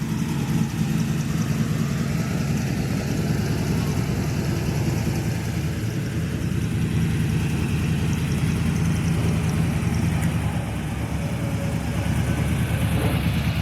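Car engine running steadily at low revs, a low, even rumble with no revving.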